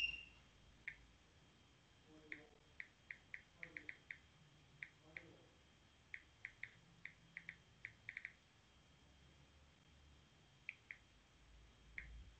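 Faint, short high chirps, about two dozen in irregular quick runs, over near-silent room tone, typical of a small bird chirping. A single brief high ping opens the stretch and is its loudest sound.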